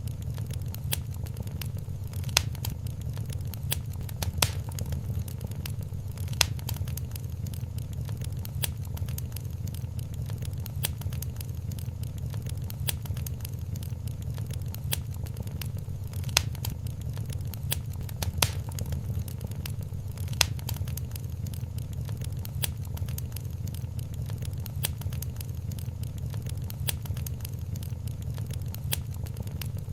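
Wood fire crackling in a fireplace: a steady low rumble under a constant patter of small crackles, with a sharper pop every few seconds.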